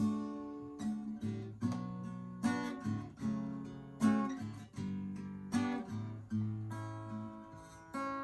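Acoustic guitar playing a slow strummed chord pattern, a new stroke about every second, with chords ringing on between strokes.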